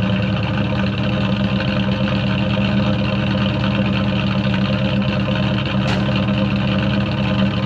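1980 Ford Bullnose pickup engine idling steadily just after a cold start, having fired on about the first turn of the key.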